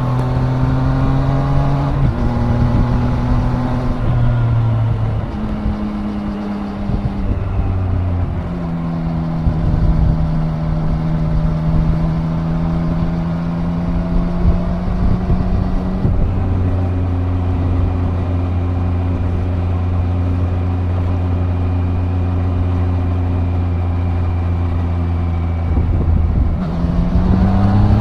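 Triumph Daytona 660 inline-three engine under way. Its pitch drops in steps over the first several seconds as the bike slows and shifts, then holds steady while cruising, and rises again near the end as it accelerates.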